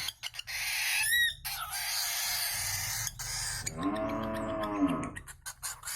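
A pet bird calling: a quick run of high rising chirps about a second in, then a longer call that rises and falls in pitch near the middle, with a few light taps scattered around it.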